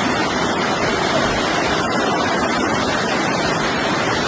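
Steady rush of fast-flowing floodwater, an even noise without rhythm or breaks.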